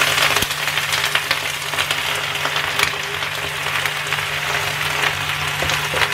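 Pea shoots sizzling in hot oil in a frying pan, a steady frying hiss with scattered crackles.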